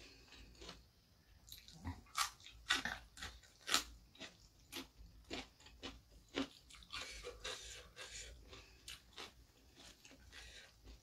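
Close-miked mouth sounds of a person eating crispy fried chicken with raw vegetables and rice: irregular crunching and chewing, the loudest crunches about two to four seconds in, then softer chewing.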